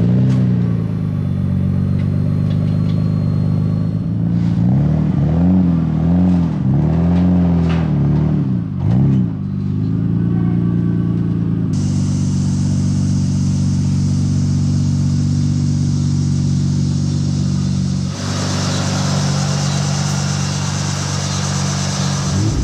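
Nissan Skyline R33 GT-R's RB26DETT twin-turbo straight-six running at idle, revved up and back down several times about five to ten seconds in, then idling steadily again. The sound shifts abruptly about twelve and eighteen seconds in.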